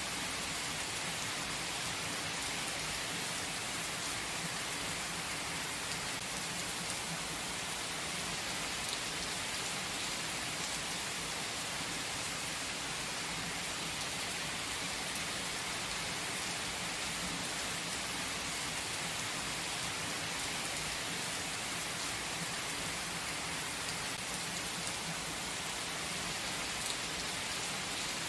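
Steady rain falling in a forest, an even, unchanging wash of dense drops with no change in strength.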